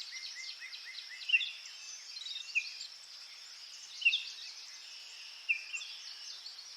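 Birdsong: many short, high chirps and whistled notes, with a few louder calls scattered through, over a steady high hiss.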